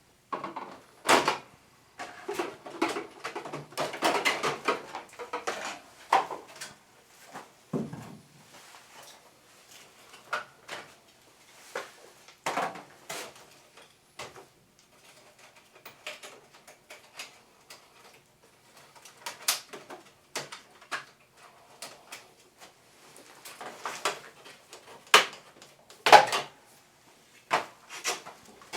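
Hands working the plastic panels and parts of an air conditioner during disassembly: irregular plastic clicks, rattles and knocks, busiest a few seconds in, with a dull thud about eight seconds in and the sharpest knock near the end.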